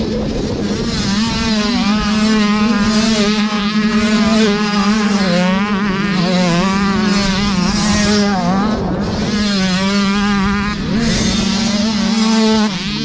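Several two-stroke 85cc motocross bikes racing, their engines revving up and down as they ride the track, the pitches overlapping and wavering.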